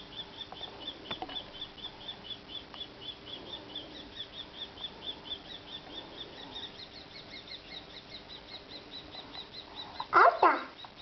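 Birds calling: a fast, steady run of short high cheeps, about five a second, then near the end a loud call with falling notes.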